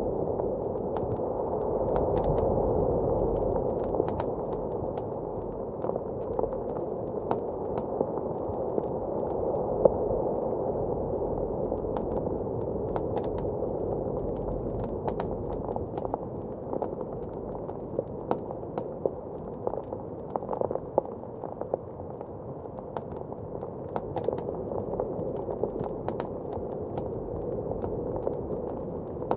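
Wood fire crackling with scattered sharp pops, over the steady, muffled rush of blizzard wind that swells and eases.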